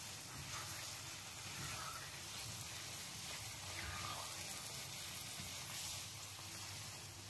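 Moong dal halwa sizzling steadily in ghee in a nonstick pan while a silicone spatula stirs it, being roasted with sugar.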